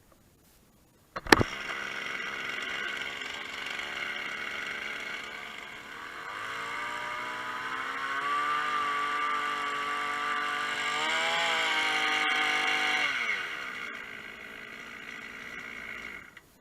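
Kubota KC2400 brush cutter's small two-stroke engine starting abruptly about a second in and running, revved up around six seconds, blipped once more near eleven seconds, dropping back to idle around thirteen seconds and cutting off near the end: a test run after its crankshaft oil seals were replaced.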